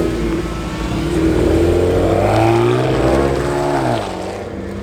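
Car engine revving: the pitch climbs over about two and a half seconds, rises again briefly, then falls away and quietens about four seconds in.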